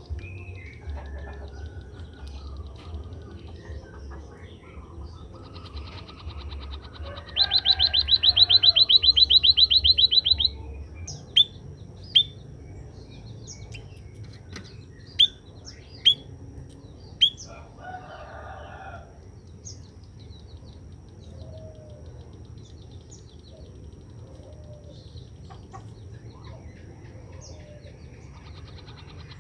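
Small cage birds chirping: a loud, very rapid high-pitched trill lasting about three seconds, then a handful of sharp single chirps, with another trill beginning at the end. The bird is an emprit kaji (white-headed munia), calling actively after being sunned.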